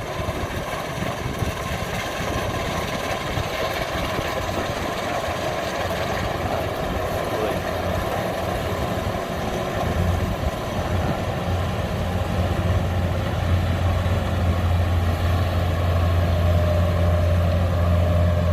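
Kubota DC93 combine harvester's diesel engine running steadily, with a deep hum that grows louder about halfway through.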